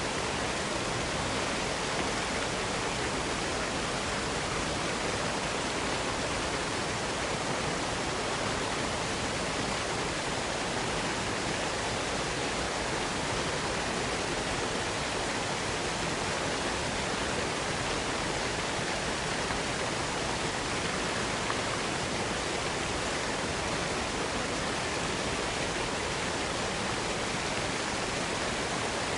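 Waterfall cascade: water falling and splashing in a steady, dense rushing hiss.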